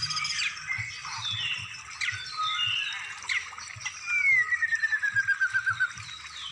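Songbird song for training caged birds: a string of quick chirps and whistled sweeps, then, about four seconds in, a rapid trill that falls steadily in pitch for about two seconds.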